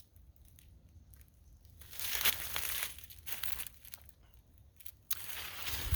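Footsteps crunching through dry leaves and brush: scattered light crackles at first, then denser uneven crunching from about two seconds in.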